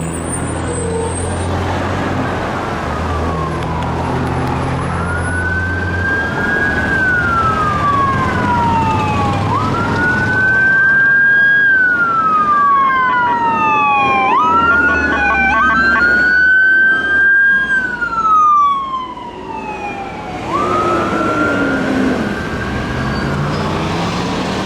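Fire apparatus sirens wailing, with repeated pitch sweeps that rise quickly and fall slowly, two of them overlapping in the middle, over the low rumble of the trucks' engines.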